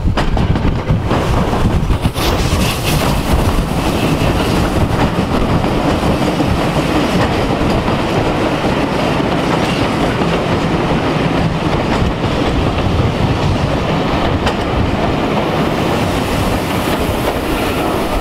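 A heritage steam-hauled passenger train running past at close range, its coaches' wheels clattering over the rails in a steady, loud rumble.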